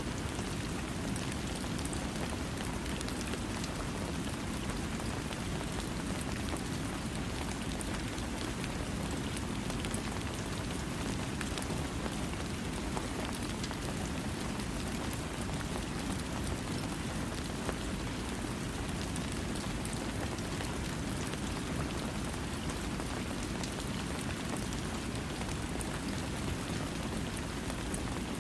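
Steady rain falling without thunder, a constant even hiss with a heavier low rush and scattered sharp drop ticks.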